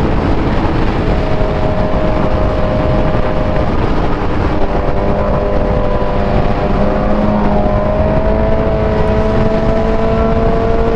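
Sport motorcycle with a wide-open aftermarket exhaust riding along, its engine note holding steady and rising slowly, under heavy wind rush on the microphone.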